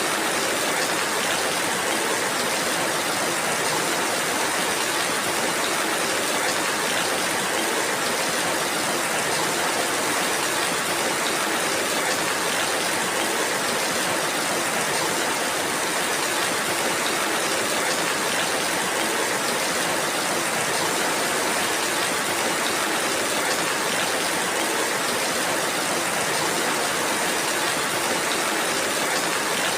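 Steady rainfall, an even hiss with no breaks or distinct events.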